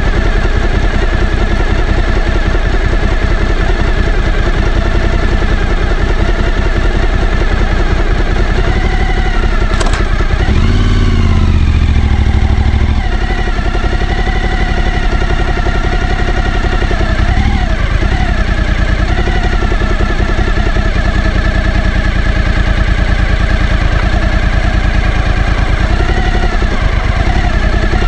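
Suzuki V-Strom 1000's V-twin engine running steadily, its note rising and falling a few times. About ten seconds in there is a sharp click, then a couple of seconds of stronger, deeper engine sound.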